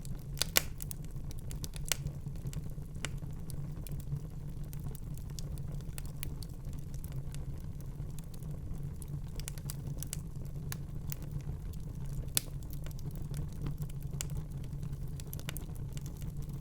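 Wood fire burning in a fireplace: a steady low rumble of the flames with irregular sharp crackles and pops, the loudest pops about half a second in and about twelve seconds in.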